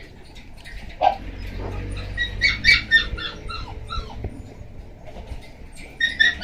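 Shiba Inu puppy, seven weeks old, giving short high-pitched whines and yips in quick runs, about two seconds in and again near the end.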